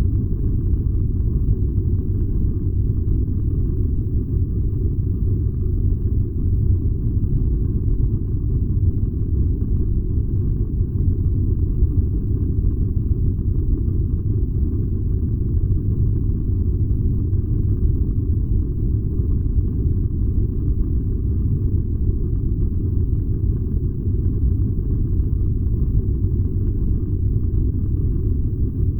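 Furnace running with a steady low rumble.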